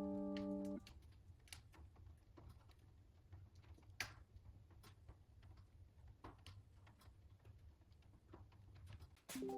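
A background-music keyboard chord cuts off just under a second in. After it, a fireplace fire crackles faintly, with irregular sharp clicks and snaps over a low rumble.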